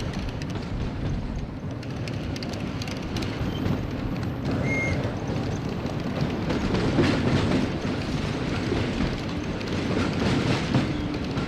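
Model train running along the track: a steady rumble with rail clicks, and a short high tone about five seconds in.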